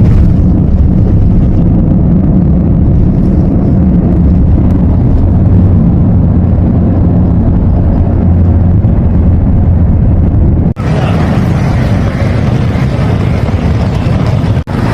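Loud, steady low rumble of a car on the move: engine and road noise heard from inside the vehicle. The sound breaks off abruptly about eleven seconds in and again near the end, changing character in between.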